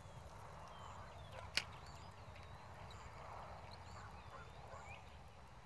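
Faint outdoor bird calls and chirps over a low background hiss, with one sharp click about a second and a half in.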